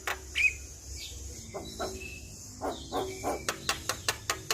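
Javan myna (jalak kebo) calling: short harsh notes and a few brief whistled chirps, then a quick run of sharp clicking notes in the last second.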